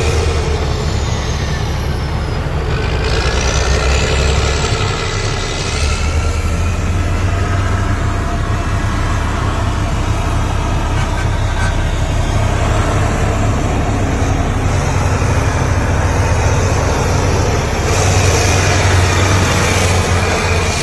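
Heavy diesel dump truck engine running steadily, its pitch falling and then climbing again about three seconds in.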